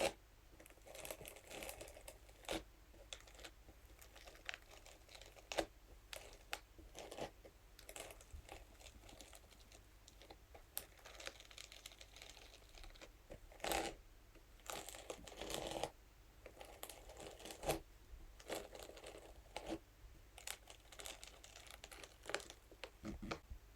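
Scalp massage brush scratched and tapped over crinkly material: soft, irregular crinkling rustles with scattered light taps, a few louder scrapes in the middle.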